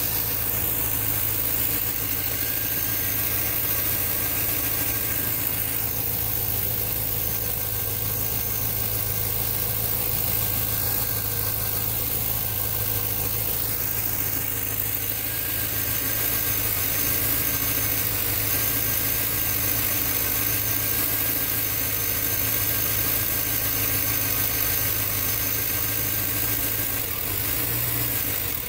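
A 2003 Chevy Suburban's Vortec V8 idling steadily after a cold start, with a steady high whine over it. The owner says it runs bad on a cold start.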